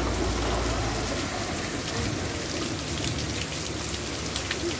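Heavy rain pouring down onto open dirt ground, a steady even hiss. A low rumble of wind on the microphone dies away about a second in.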